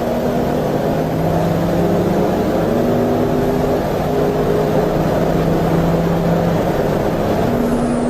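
Racing engine running hard under load, its pitch holding and then stepping to new notes, with a high whistle that begins to fall near the end.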